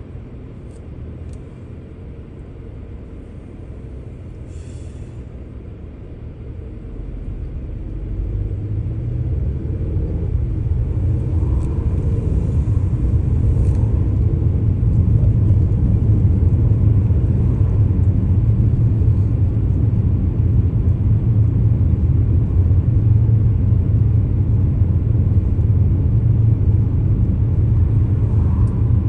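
A car driving, its low rumble of engine and road noise growing louder about a quarter of the way in as it picks up speed, then holding steady.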